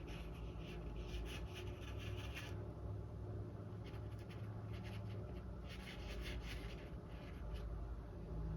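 Paintbrush bristles stroking acrylic paint onto a stretched canvas in two spells of quick, scratchy strokes, over a low steady hum.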